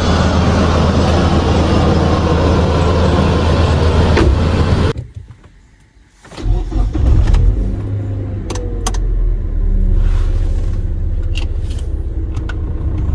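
A car engine running steadily with a deep hum, then, after an abrupt cut, a Hyundai Trajet's engine starting about six seconds in and settling into idle, heard from inside the cabin, with a few sharp clicks.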